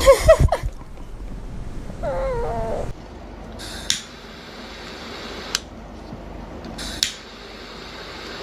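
A cat's drawn-out, wavering meow about two seconds in. A few sharp clicks or taps follow later.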